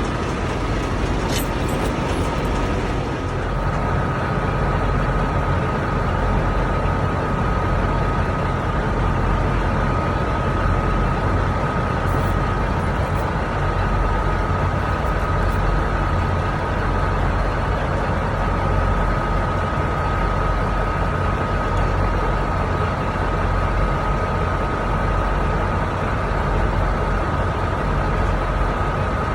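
Heavy diesel truck engine idling steadily, with a thin steady whine joining about three seconds in.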